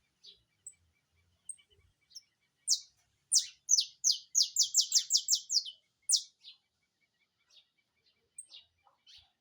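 Saffron finch singing. Scattered short high chirps give way, about three seconds in, to a loud, fast run of about a dozen downward-sweeping notes lasting around three seconds, the burst breeders call 'disparando'. The song then drops back to sparse chirps.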